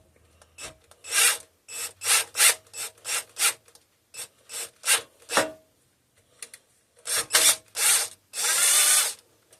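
Hand-worked scraping on metal: short rubbing strokes in quick runs of three or four, ending with one longer stroke near the end, as damaged screw threads are cleaned up.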